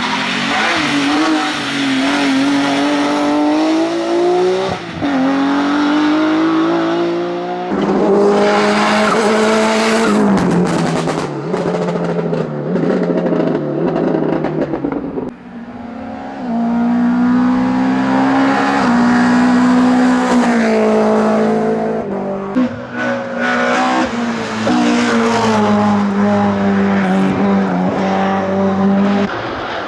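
Hillclimb racing cars driven hard, one after another, engines revving high and dropping in pitch with each gear change as they power up the course.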